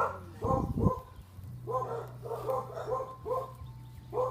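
A dog barking in a quick series of short barks, about eight of them, with brief gaps between.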